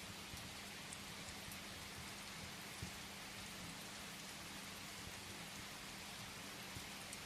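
Steady rain falling on a surface, a continuous even hiss, with a few scattered sharp crackles of a wood fire and a faint steady low hum underneath.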